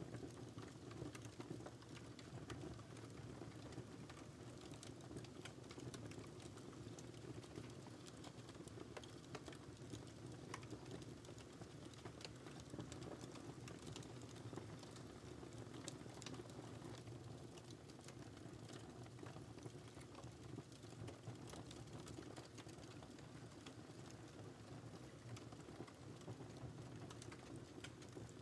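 Wood fire crackling: frequent small sharp pops and snaps, irregularly spaced, over a soft steady low rush of the burning fire.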